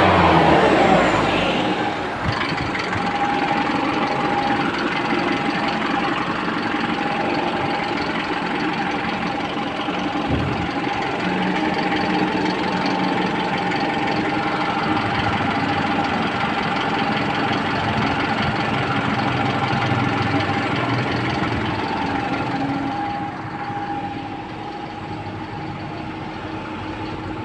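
Isuzu Elf truck engine running at a steady idle. It is loudest in the first two seconds, where a sound falls in pitch, and gets a little quieter near the end.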